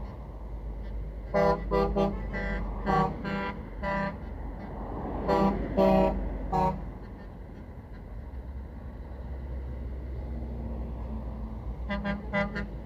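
Truck horns sounding in a series of short toots over the steady low rumble of passing lorries. A quieter lull follows, and more toots start near the end.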